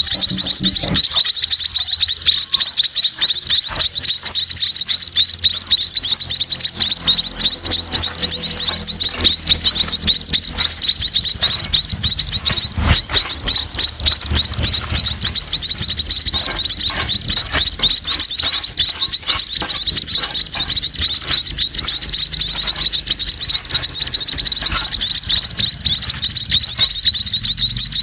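Nestling songbirds begging to be fed: a loud, continuous chorus of rapid, high-pitched chirps, many per second.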